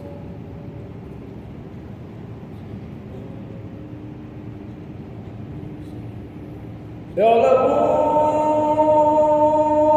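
A quiet pause, then about seven seconds in a man's voice starts a long, held melodic note of Quran recitation in tajwid style, the drawn-out opening of the next verse.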